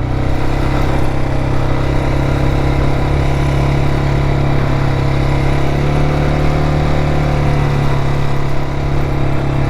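Motorcycle engine running steadily while under way, its pitch holding fairly even with a slight rise and then a dip near the end.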